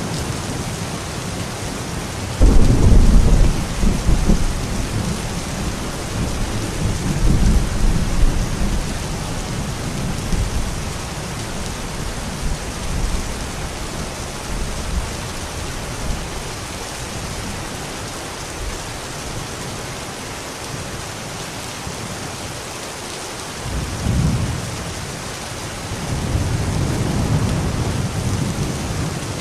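Steady heavy rain with thunder. A sharp loud thunderclap about two and a half seconds in rumbles away over several seconds, and another long low rumble builds near the end.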